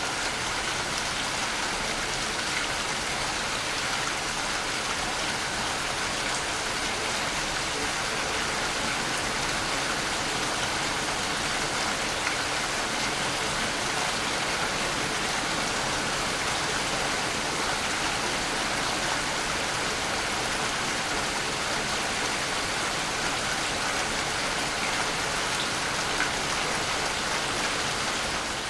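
Waterfall: a steady, hissing rush of falling water that never changes.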